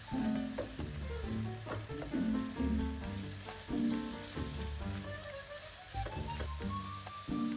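Background music with repeating bass notes over the sizzle of spinach and grated carrot frying in oil in a pan. The greens are being stirred with a wooden spatula while the remaining liquid cooks off.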